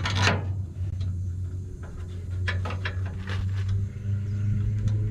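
Light metallic clicks and knocks of parts being handled and fitted, with a sharp click right at the start and a cluster of clicks in the middle. A steady low hum runs underneath throughout.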